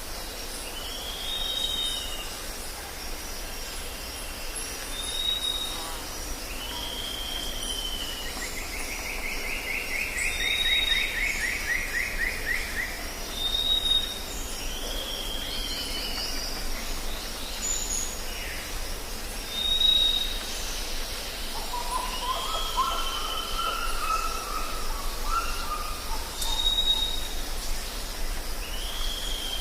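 Jungle ambience: several birds calling with short repeated whistles and arching calls, a long trill about a third of the way in and a run of lower notes later on. Beneath them runs a steady high-pitched insect drone.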